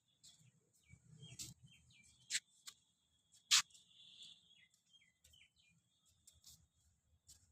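Small birds chirping in quick, short, partly falling calls, with three sharp loud chirps standing out in the first half, over a steady high-pitched drone.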